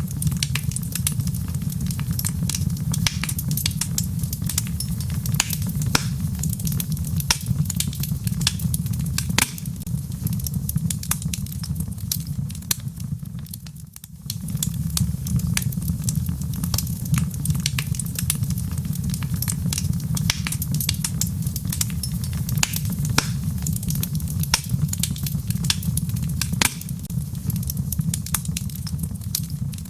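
Log fire burning in a fireplace: a steady low rumble of flames under frequent sharp crackles from the burning wood. The sound dips briefly about halfway through, then comes back.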